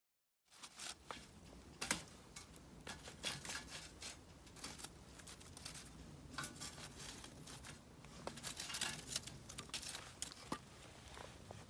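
Mixed-hardwood campfire crackling, with irregular sharp pops and snaps over a faint low rumble of the burning fire. It starts about half a second in.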